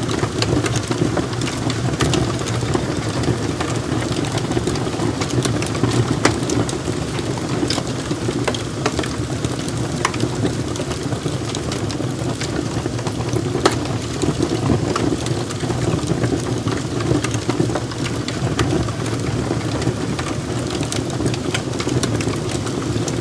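Log fire burning in a fireplace: a steady low rumble of flames with frequent sharp crackles and pops from the burning wood.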